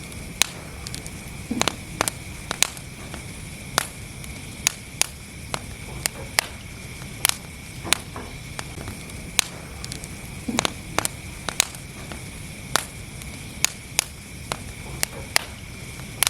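Wood fire burning in a fireplace: irregular sharp crackles and pops over a steady hiss.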